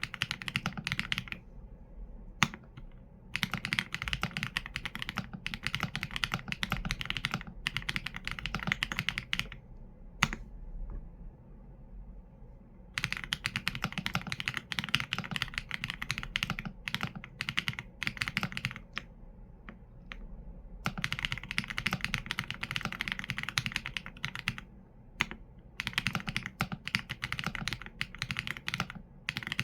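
Typing on a Qsenn A75 mechanical keyboard with Leobog Graywood V4 linear switches and PBT keycaps: fast runs of keystrokes in bursts of several seconds, broken by short pauses with the odd single keypress.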